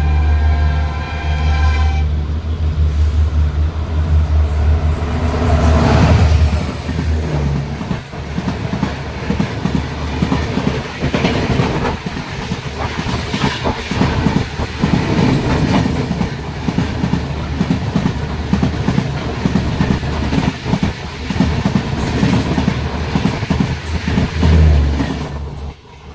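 An express train passing on the adjacent track. Its locomotive horn sounds a long blast that ends about two seconds in, and the locomotive rumbles past. Then the coaches run by with rapid clickety-clack of wheels over rail joints, which drops away suddenly just before the end.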